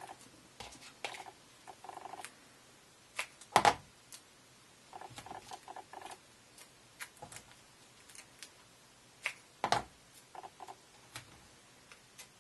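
Small clicks, taps and faint squeaks of hands working with foam tape and cardstock, with two sharper knocks, one about three and a half seconds in and another near ten seconds.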